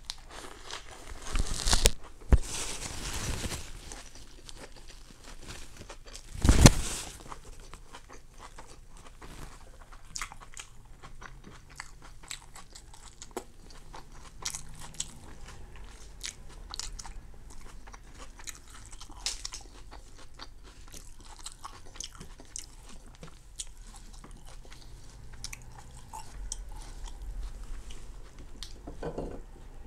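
Close-miked biting and chewing of crispy rice pancake (banh xeo). A few loud crunchy bites come in the first seven seconds, then softer chewing with many small crunches.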